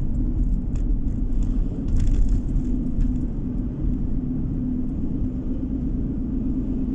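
Car driving on the road, heard from inside the cabin: a steady low rumble of tyres and engine with a constant hum. A few faint ticks and knocks come through about two and three seconds in.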